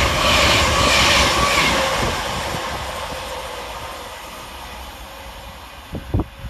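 Class 390 Pendolino electric train running through the station, a loud rushing rolling noise that pulses about twice a second for the first two seconds and then fades steadily as it moves away. Two short knocks come near the end.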